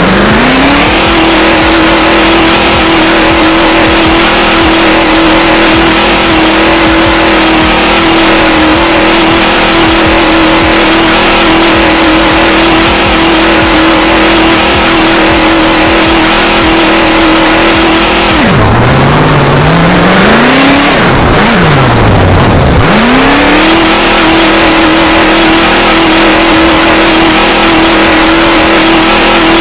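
Car engine held at high revs at a steady pitch. About two-thirds of the way through it drops off, revs up and down twice, then climbs back and holds high again.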